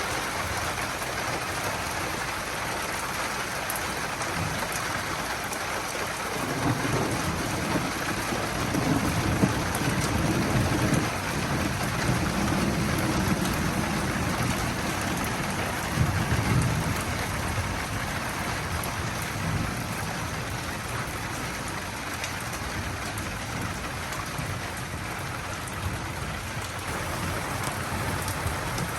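Steady rain falling, with a long roll of thunder rumbling low from about six seconds in and dying away some ten seconds later.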